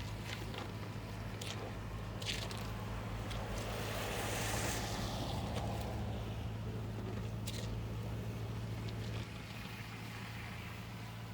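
A steady low mechanical hum, like a nearby motor vehicle, with a swell of traffic noise that peaks about four to five seconds in. A few scattered crunches and clicks. The hum drops in level about nine seconds in.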